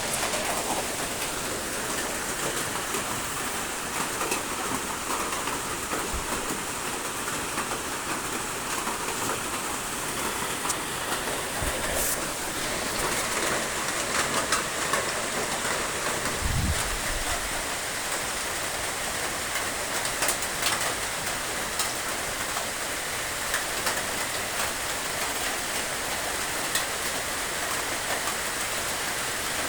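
Steady rain falling on a surface: a constant hiss dotted with sharp clicks of individual drops. A brief low thump comes a little past halfway.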